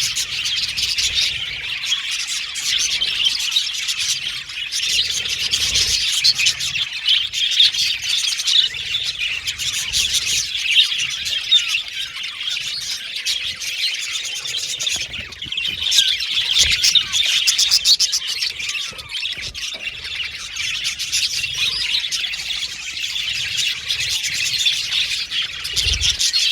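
A colony of budgerigars chattering and chirping, many calls overlapping in a dense, unbroken warble.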